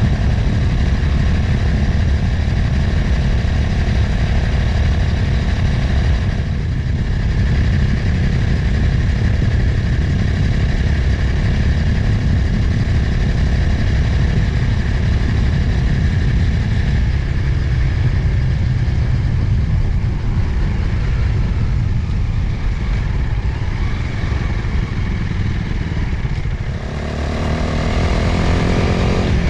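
Motorcycle engine running at road speed under heavy wind rumble on the microphone. Near the end the engine eases off briefly, then its pitch climbs as it accelerates.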